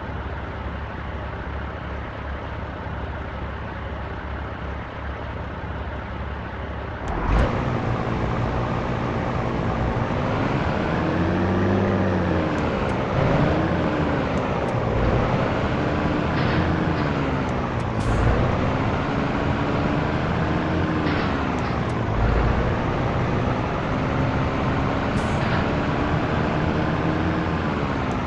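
Heavy truck diesel engine, most likely the channel's Scania T113, idling steadily and then pulling away about seven seconds in. Its revs rise and fall several times as it works through the gears, with a few short hisses.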